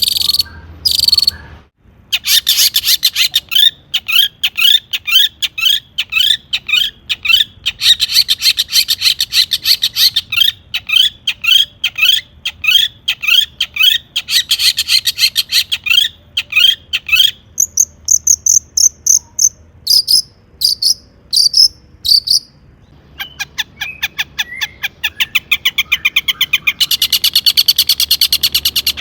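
Long-tailed shrike singing: long runs of rapid, repeated rising chirps, broken by a brief high whistle partway through, and a faster chattering trill near the end.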